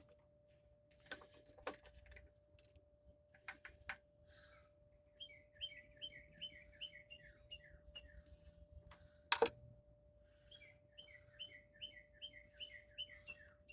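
A songbird singing two runs of quick, repeated down-slurred chirps, several notes a second. Scattered light clicks come early on, and one sharp knock about nine seconds in is the loudest sound. A faint steady hum runs underneath.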